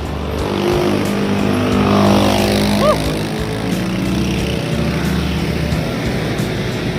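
Engine of a motor vehicle passing on the road, its pitch climbing over the first few seconds, over a low rumble of road and wind noise. A short high chirp about three seconds in.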